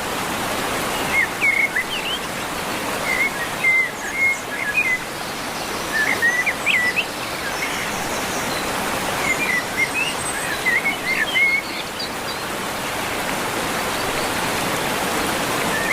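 Small birds chirping in scattered clusters of quick twittering notes over a steady rushing background noise.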